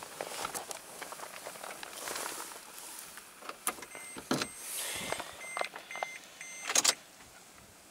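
Clicks and rustling from inside a 2005 Toyota Tundra's cab, then the dashboard warning chime beeping repeatedly in short, evenly spaced tones, with a sharp noise burst near the end. The engine is not yet running.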